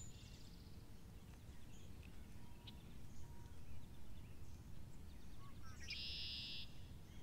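Quiet outdoor ambience with a faint low rumble, broken about six seconds in by a bird's short, rapid, high trill.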